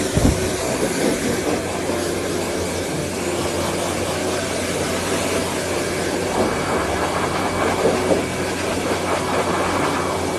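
Steady mechanical rumble and hiss with a constant low hum.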